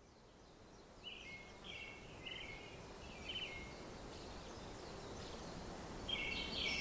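Faint bird chirping starts about a second in: a run of short, quickly sliding chirps, then a pause, then a few more near the end. A soft, steady background hiss lies under the chirps.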